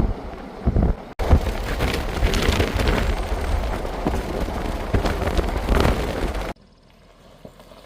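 Wind buffeting the microphone: a loud, gusty rumble with crackle, which cuts off abruptly about six and a half seconds in, leaving a faint, quiet background.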